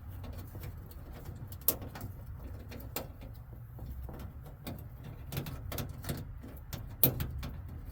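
Sharp clicks and knocks of car door handle and lock parts being handled and fitted into a door, the loudest twice, about two seconds in and near the end, over a steady low rumble.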